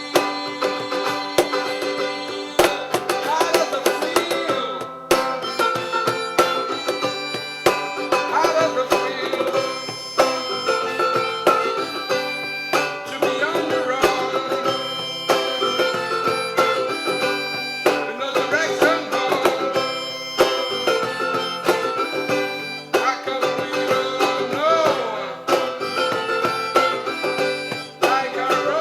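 Live acoustic band playing an instrumental passage: acoustic guitar, percussion strikes keeping a steady beat, and a sustained, wavering melody line over the chords.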